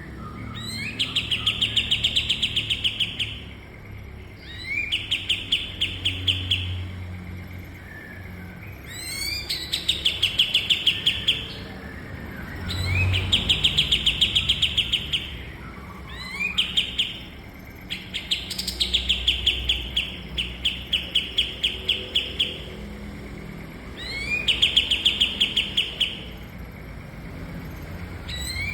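Kapas tembak songbird singing its song over and over: each phrase is a quick upward sweep into a fast rattling trill of high notes about two seconds long, repeated about seven times with short pauses between.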